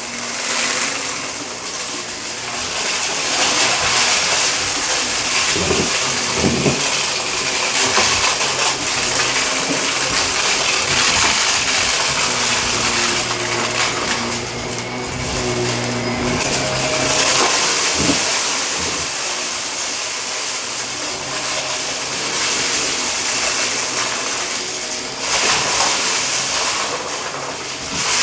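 Shark vacuum cleaner running on carpet, pushed back and forth quickly, with the crunch and clatter of debris being sucked up. Its sound swells and eases with the strokes.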